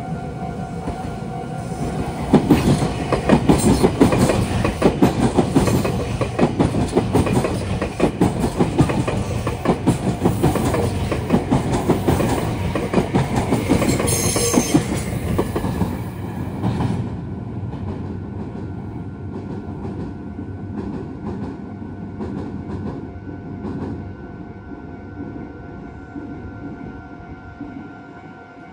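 Meitetsu electric train passing through the junction, its wheels clattering over points and rail joints. It grows loud about two seconds in, stays loud until about seventeen seconds, then fades as it moves away.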